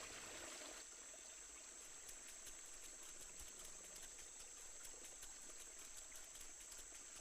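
Faint rainforest insect chorus: a steady high-pitched buzz with rapid, regular pulsing above it.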